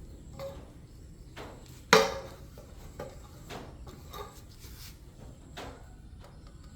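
Hand tools and parts being handled in a workshop: a few light knocks and clicks, with one loud, sharp clank about two seconds in that rings briefly.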